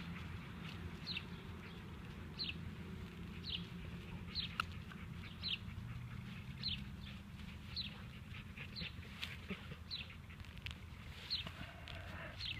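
A bird repeating a short, high call that slides downward in pitch, about once a second, over a low rumble of outdoor background noise. A single sharp click about four and a half seconds in.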